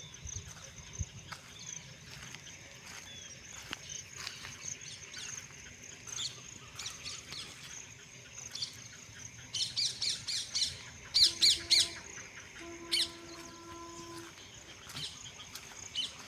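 Birds calling and chirping over a steady high-pitched drone. The loudest part is a quick run of sharp, repeated chirps from about ten to thirteen seconds in.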